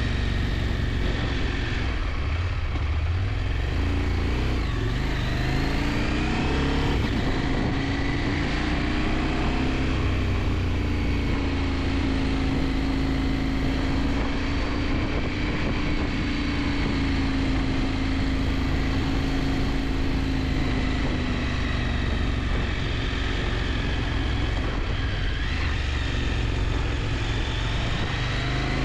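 KTM 890 Adventure's parallel-twin engine pulling along the road over heavy wind rush. Its note climbs a few seconds in, holds steady, then drops and rises again near the end.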